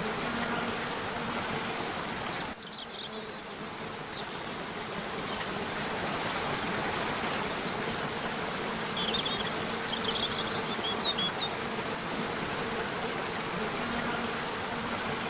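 Nature-sounds ambience: a steady rushing, buzzing noise with a faint low hum, dipping briefly a couple of seconds in. A few short high chirps come about two-thirds of the way through.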